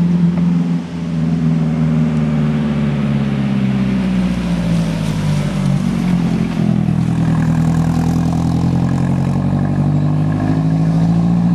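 Engine of a heavy road vehicle, a bus or truck, running loud and close. Its pitch sags around the middle and then climbs again as it pulls.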